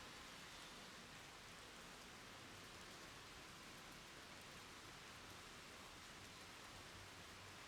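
Faint, steady rain falling on a wet surface, heard as an even hiss.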